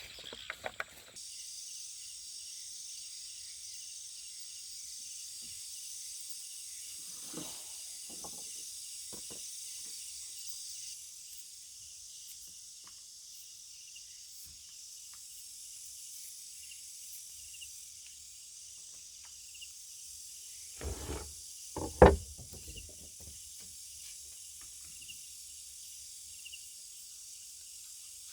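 Steady high-pitched chorus of insects, with a faster pulsing chirp running through it, which grows quieter about eleven seconds in. A few soft knocks come about seven seconds in, and a single sharp loud knock about twenty-two seconds in.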